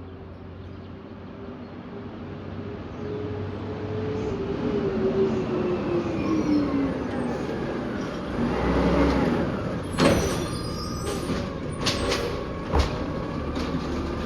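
Peterbilt 320 side-loader garbage truck approaching, its engine growing louder with a falling engine note as it slows. From about ten seconds in there are several sharp knocks and clatters.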